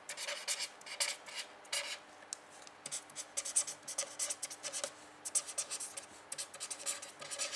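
Handwriting: a run of quick, irregular scratchy pen strokes on a writing surface.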